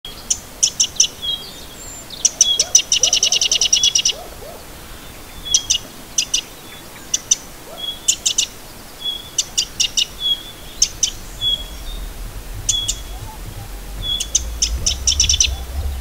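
Songbirds singing: short high notes repeated in phrases, with a fast trill about two seconds in. A low rumble builds under the song in the second half.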